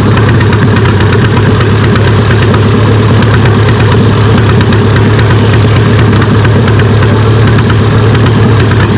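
Antique tractor engine running steadily at idle close to the microphone, a loud even low hum with a fast putter and no change in speed.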